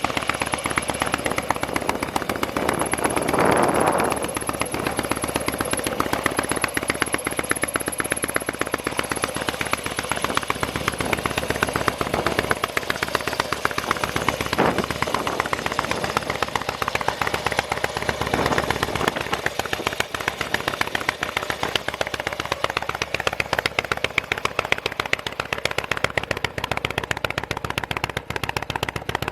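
Harley-Davidson Dyna FXDB Street Bob's fuel-injected V-twin running through an aftermarket muffler, a fast, even train of exhaust pulses. It swells briefly about three seconds in.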